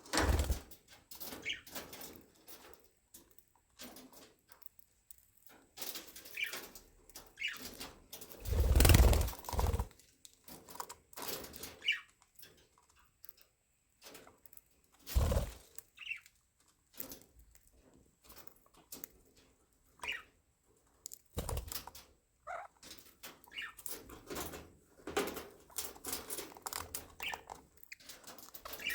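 Budgerigars in an aviary: scattered short chirps among frequent small clicks and scratches, with a few louder bursts of wing flapping, the loudest about nine seconds in.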